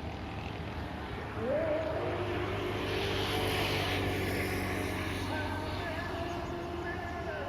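A motor vehicle engine over a steady low hum: about a second and a half in, its pitch rises and then holds steady as it runs on, passing loudest around the middle.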